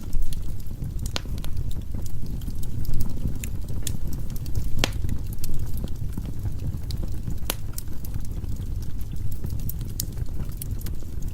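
Firewood burning in a fireplace: a steady low rumble of flame with frequent sharp crackles and pops from the logs, a few louder snaps among them.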